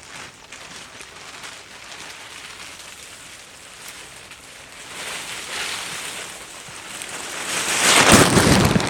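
Wind blowing over the microphone: a steady rush that swells, then rises into a loud gust near the end.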